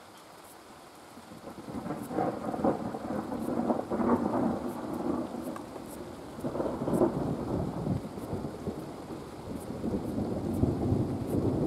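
Thunder rolling in a long, crackling rumble that builds about two seconds in and swells again several times, with rain falling.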